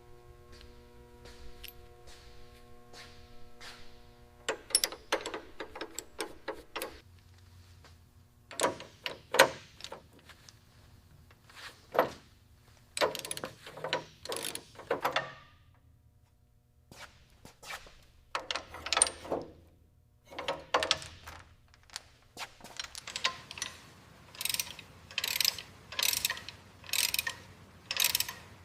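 Mechanical clicking, knocking and scraping from hand work on car parts, in separate short strokes. Near the end the strokes come regularly, about one a second.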